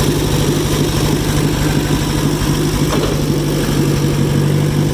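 John Deere 1010 crawler dozer's engine running steadily at idle, an even hum with no change in speed.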